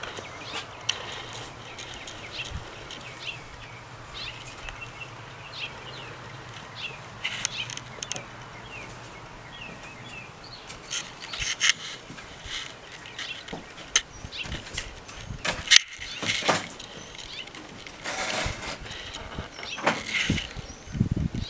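Small birds chirping with short, faint calls, mixed with scattered clicks and rustles, including a sharp click about sixteen seconds in.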